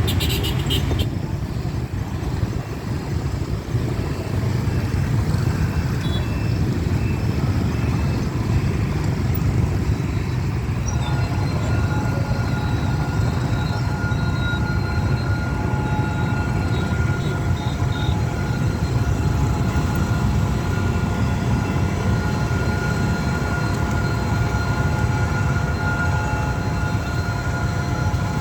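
Steady rumble of road traffic waiting at a railway level crossing. About eleven seconds in, a steady electronic tone of several pitches joins and holds on.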